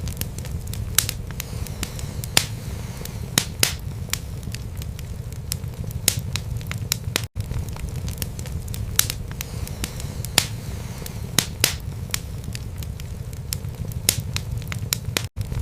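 Wood fire in a fireplace crackling: irregular sharp pops and snaps, a few every second, over a steady low rumble of the burning logs. The sound cuts out for an instant about seven seconds in and again near the end.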